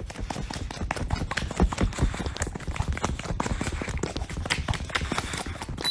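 Dog licking a person's face close to the microphone: a rapid, irregular run of wet clicks and smacks.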